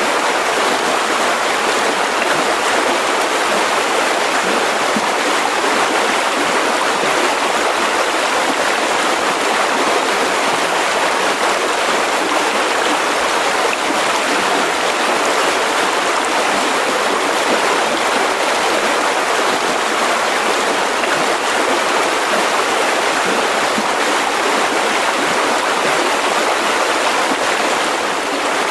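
Mountain river rushing over rocks: a steady, even flow of water that doesn't change.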